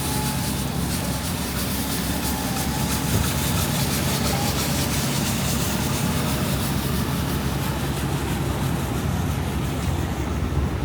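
Steady low rumble of city street traffic and wind, with a steady engine hum underneath.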